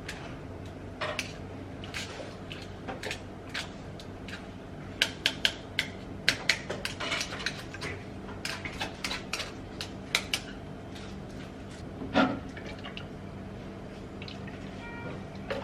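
Metal spoon and kitchenware clinking and tapping against a sieve and bowl while a blended vegetable juice is strained, in irregular runs of quick clinks with a louder clink near the end.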